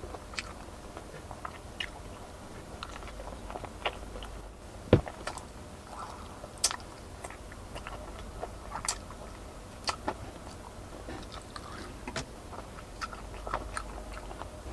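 Close-up chewing of crispy fried chicken: soft wet chewing with scattered small crunches and mouth clicks, the sharpest crunch about five seconds in.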